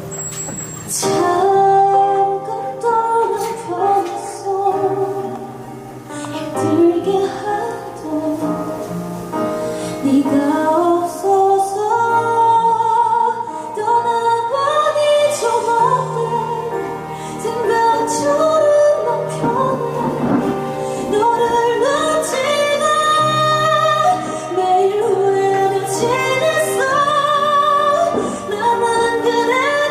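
A woman singing live over backing accompaniment, her held notes wavering with vibrato.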